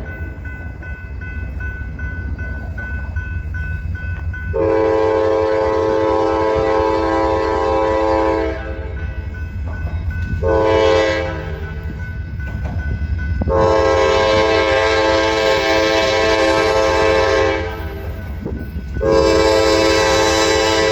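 Diesel freight locomotive's multi-note horn sounding four blasts, long, short, long and a last long one still going at the end, over the steady low rumble of the train.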